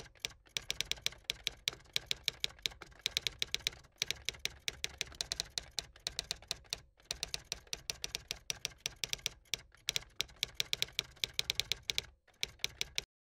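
Typewriter keys clacking in quick runs of strikes, with short breaks about four, seven and twelve seconds in. The strikes stop just before the end.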